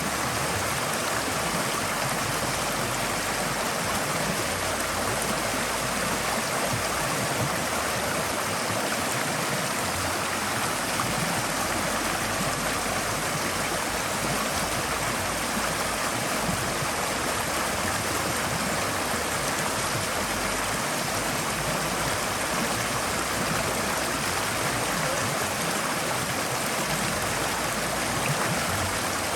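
Forest stream flowing steadily over rocks: a continuous, even rush of water.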